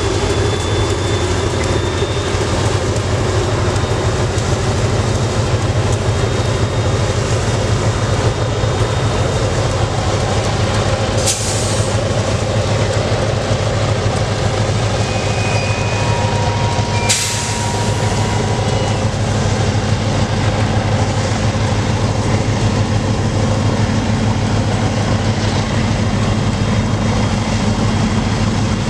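Freight train rolling past: a steady rumble of railcars on the rails, with faint wheel squeals. Two sharp clicks stand out, about a third of the way in and just past halfway.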